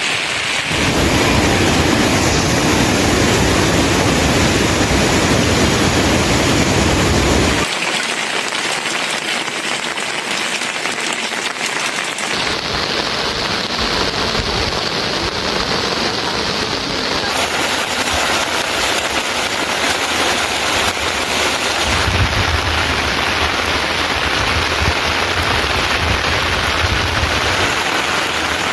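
Steady heavy rain falling, with no breaks. Its sound changes abruptly several times, and at the start and again near the end it carries a deeper low rumble.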